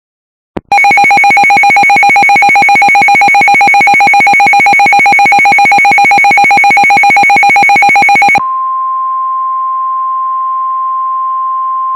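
Weather radio alert sounding before a tornado warning. A click, then a very loud, rapidly pulsing electronic alarm, which gives way about eight seconds in to a steady single-pitch tone over faint radio hiss: the NOAA Weather Radio 1050 Hz warning alarm tone.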